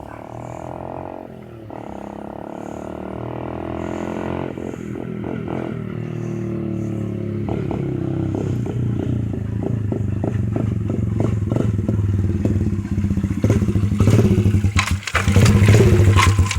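Small dirt bike engine running and revving, its pitch rising and falling, growing steadily louder as it comes closer and loudest near the end.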